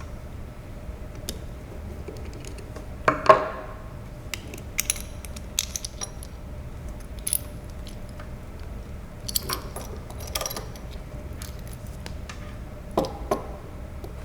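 Small metal parts clinking and rattling as a steel cable is worked out of a corner pulley assembly: scattered light clicks, with a louder ringing clink about three seconds in and bursts of clicks near ten seconds and near the end.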